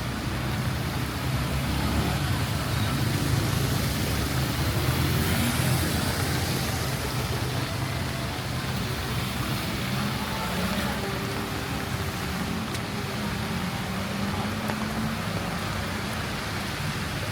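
Road traffic in heavy rain: a vehicle engine running with a low, steady hum under the even hiss of rain and wet road.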